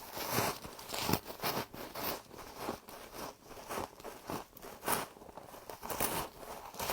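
Close-up crunching as a person bites and chews crunchy frost, in short irregular crunches about two a second.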